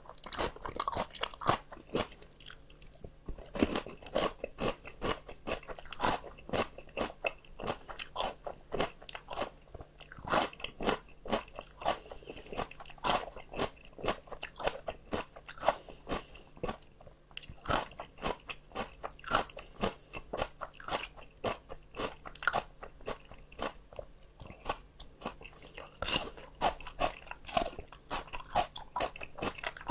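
Close-up crunching and chewing of fresh raw vegetables: a rapid run of crisp bites and chews, pausing briefly a few times.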